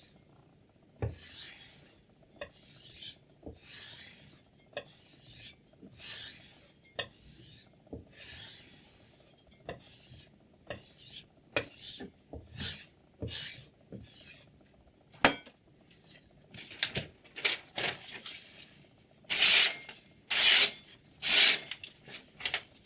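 A knife blade rasping in a long series of short strokes, roughly one every 0.7 s, with a few sharp clicks between them; the strokes get louder near the end.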